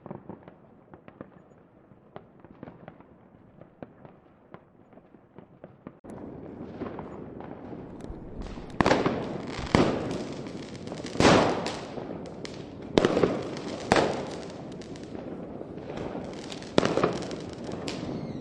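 Fireworks: a run of small, fainter pops and crackles, then, after an abrupt change about six seconds in, louder explosions every second or two, each with a long rumbling tail.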